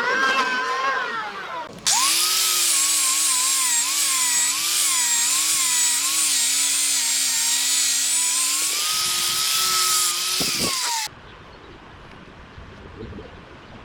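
A power tool runs under load on wood, giving a loud hiss with a motor tone whose pitch wavers up and down. It starts suddenly about two seconds in and cuts off abruptly near the end, leaving only faint background noise.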